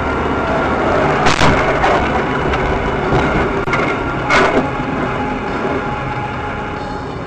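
Two sharp bangs about three seconds apart over a steady background noise.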